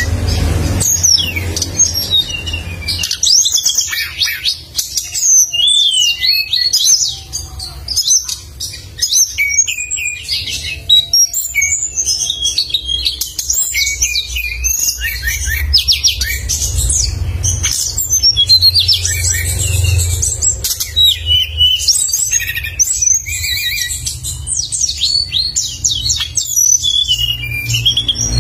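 A songbird singing continuously in rapid, sharp, high-pitched chirps and trills, over a low steady rumble.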